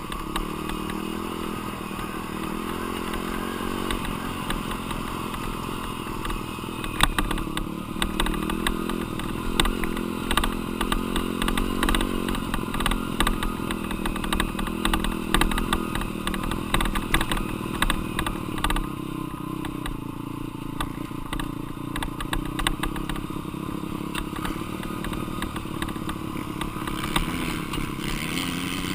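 Dirt bike engine running and being ridden, its pitch rising and falling as the throttle opens and closes, with sharp clattering knocks from the bike over rough ground through the middle.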